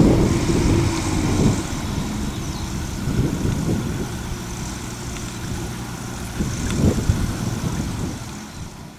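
A distant engine runs steadily over a low rumble, then fades away near the end.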